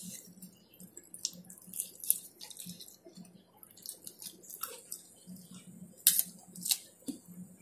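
Close-miked eating: wet chewing and lip smacks, with irregular sharp smacks, the two loudest about six seconds in and again just after.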